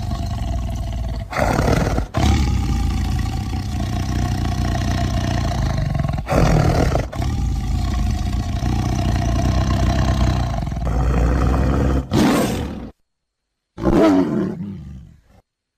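Tiger growling and roaring in long, deep stretches broken by brief gaps, then a short pause and one short roar that fades out near the end.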